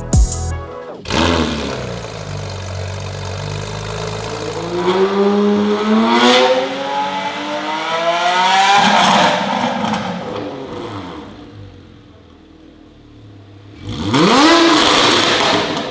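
A sports car engine with a custom valved exhaust, heard as it accelerates hard: the pitch climbs steadily for several seconds, then the engine backs off. Near the end it gives one sharp rev with a quick rise and fall in pitch. Background music cuts off about a second in.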